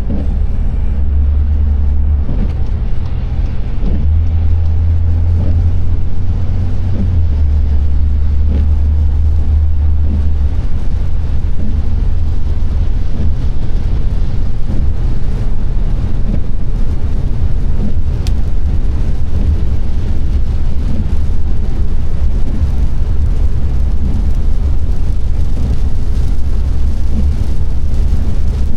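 Car driving, a steady low rumble of engine and road noise that shifts in strength a few times in the first ten seconds, then runs evenly.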